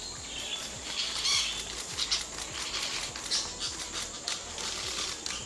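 Small parrots giving short, high chirping calls several times, with scattered clicks and light patter.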